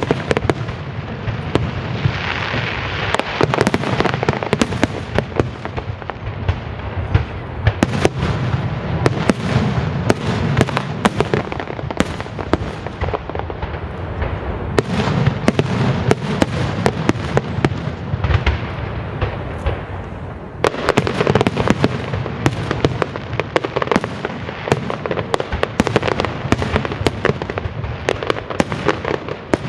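Aerial fireworks display going off continuously: rapid cracking and popping over deep booms, with a brief lull about two-thirds of the way through before the barrage resumes.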